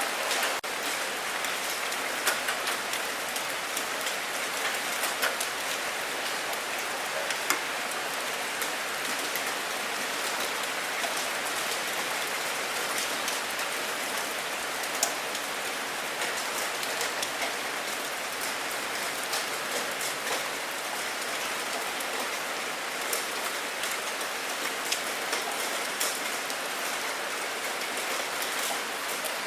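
Steady rain, with many separate drops ticking sharply on a hard surface through the constant hiss.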